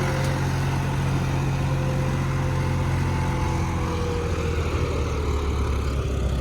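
John Deere tractor's diesel engine working under load pulling a disc harrow, a steady drone whose pitch sinks about two-thirds of the way through as the engine is pulled down.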